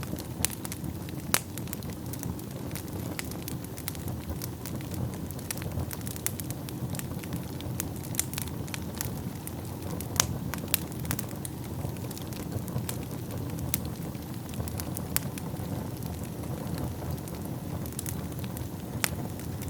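Wood fire in a fireplace burning with a steady low rumble of flames and frequent sharp crackles and pops at irregular intervals.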